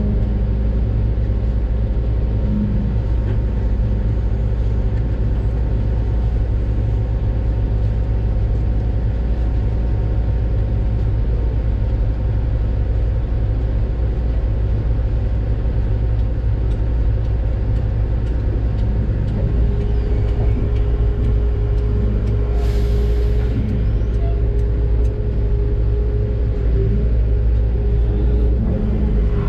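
Doosan DX600 excavator's diesel engine running steadily under working load, heard from the operator's cab. A brief hiss comes about two-thirds of the way through.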